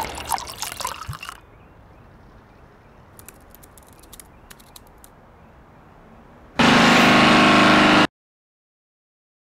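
A loud machine racket dies away, then a quiet stretch with a few faint clicks. About six and a half seconds in, a loud, steady, rough machine noise starts suddenly, runs about a second and a half, and cuts off abruptly into silence.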